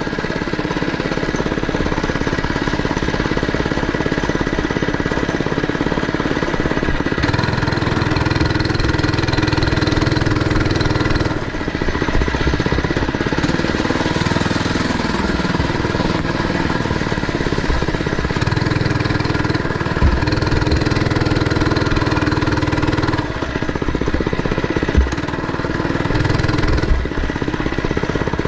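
Mini bike engine running steadily while ridden, its speed rising and falling a few times with the throttle.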